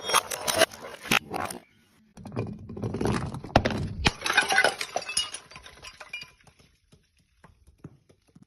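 Glass bottles shattering in two crashes, the second heavier, about two seconds in, followed by a shower of tinkling shards that thins out to a few scattered clinks.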